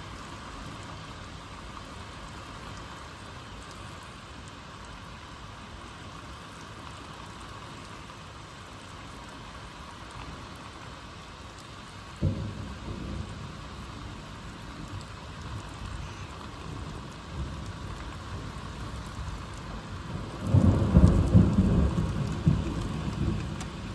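Steady rain from a severe thunderstorm, with a sharp clap of thunder about halfway through and a louder, longer rumble of thunder near the end.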